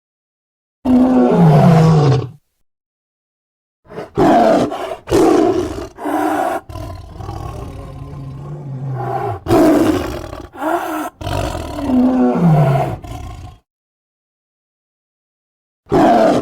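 Sabre-toothed cat (Smilodon) sound effects: a roar that falls in pitch about a second in, then a run of short snarls and growls, with another falling roar near the end, separated by silences.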